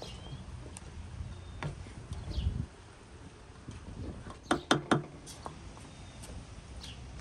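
Outdoor ambience with a few short bird chirps, and a quick run of three or four sharp knocks about four and a half seconds in.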